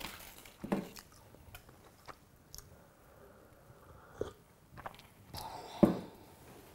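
A person quietly chewing a bite of beef pancake, with a few soft mouth sounds, then sipping from a metal cup about four seconds in.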